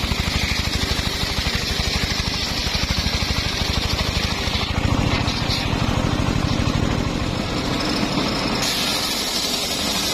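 Engine-driven circular saw running, the engine pulsing fast and evenly under a higher whine. About halfway through, the sound shifts as the load changes, and near the end the high whine comes back strongly.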